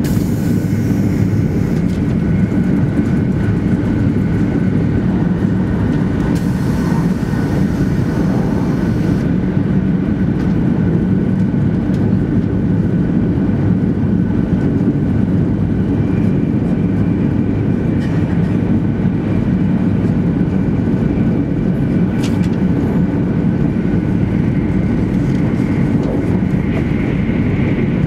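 Steady low rumble and rush of a 200 series Shinkansen running at speed, heard inside the passenger cabin. About six seconds in, a hiss in the high end comes and goes over some three seconds. Near the end, a train passing close on the next track adds a little more rush.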